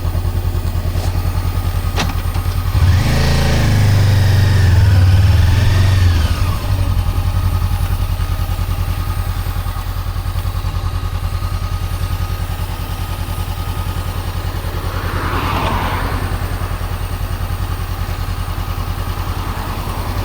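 Honda CB400X's parallel-twin engine running under way, steady most of the time, with a louder stretch of acceleration a few seconds in where the pitch climbs and falls. A single click comes just before it, and a brief swell of noise follows about three-quarters of the way through.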